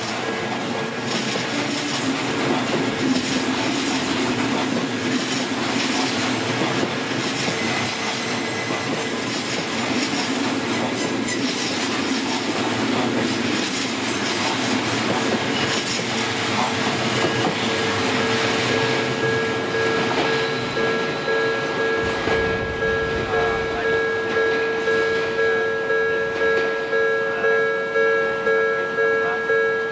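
Electric commuter train rumbling and clattering past over a level crossing while the Japanese crossing alarm rings continuously. The train noise fades after about twenty seconds, leaving the crossing bell's steady, evenly pulsing ding-ding.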